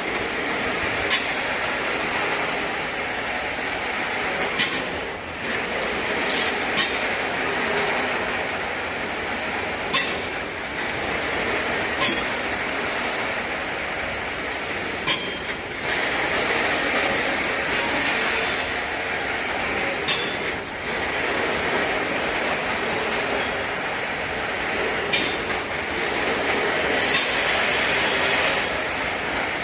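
Freight wagons rolling through a station, a steady rumble of steel wheels on rail. It is broken by irregular sharp knocks as the wheels cross rail joints and points, several of them with a brief high wheel squeal.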